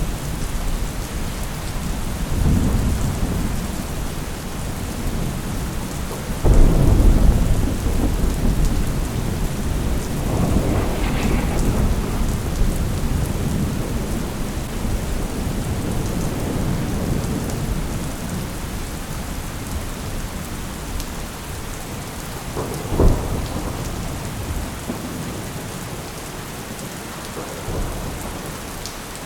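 Steady rain with thunder rolling through it: low rumbles, a loud thunderclap about six seconds in that rumbles on for a few seconds, and a short sharp crack about two-thirds of the way through.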